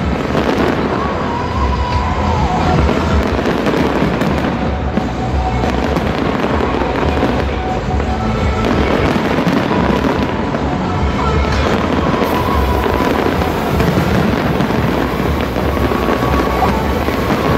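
Fireworks display going off in a continuous barrage of bangs and crackles, with music playing along.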